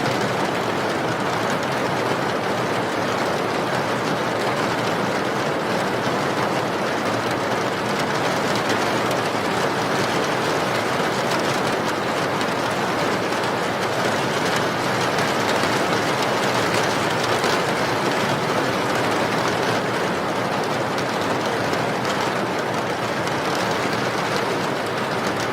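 Steady, heavy rain falling without letup.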